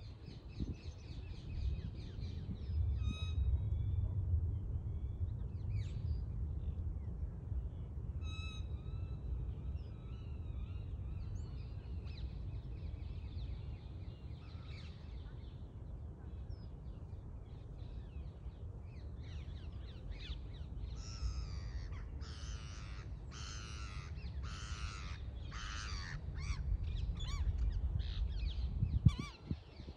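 A bird calls repeatedly over a steady low wind rumble on the microphone: a few short calls in the first ten seconds, then a run of about six loud calls in quick succession about two-thirds of the way through. A sharp thump comes near the end.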